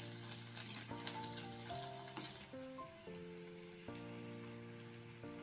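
Chopped onions, dried red chillies and spices frying in ghee in a wok, sizzling as a metal spoon stirs and scrapes them through the tadka. The sizzle eases about two and a half seconds in. Soft background music with a slow melody of held notes plays throughout.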